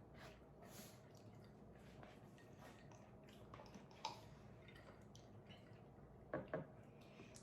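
Faint eating sounds: soft wet chewing and small clicks. One sharper sound comes about four seconds in, and two come close together near the end.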